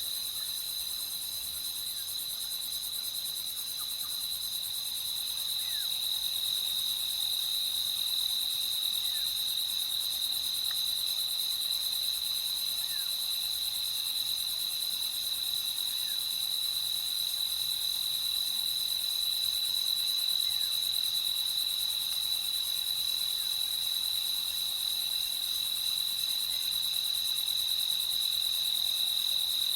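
Crickets chirping in a steady, continuous high-pitched trill, with a few faint short calls from other insects or frogs scattered through it.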